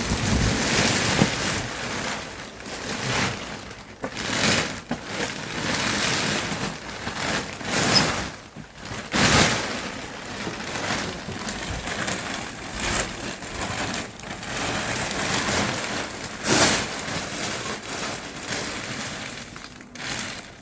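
Snow being shovelled by hand: irregular scrapes and crunches of a shovel pushing and lifting heavy snow, a stroke every second or few.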